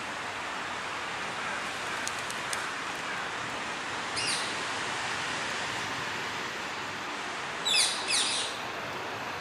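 Green parakeets giving short high calls: one about four seconds in, then two louder calls close together near the end, over a steady outdoor background hiss.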